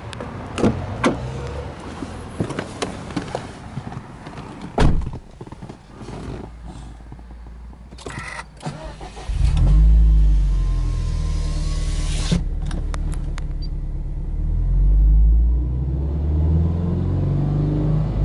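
Subaru Impreza WRX STI's turbocharged flat-four (boxer) engine started from cold: after some clicks and knocks it cranks and fires about halfway through, flares up and then runs at a fast idle. A few seconds later the revs rise and fall briefly.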